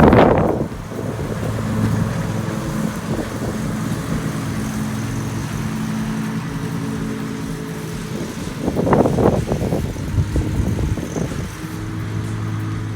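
Zero-turn riding mower engine running steadily under mowing load, an even hum. Two loud rushing surges of noise break over it, one right at the start and one about nine seconds in.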